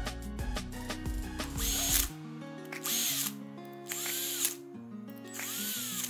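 Cordless drill/driver spinning in four short bursts, each with a whine that rises and falls, as it drives the corner screws of a 42 mm NEMA stepper motor's end plate.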